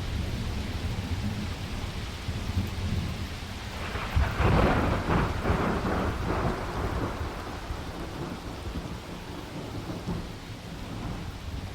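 Heavy rain falling steadily, with a roll of thunder that swells about four seconds in and dies away over the next few seconds.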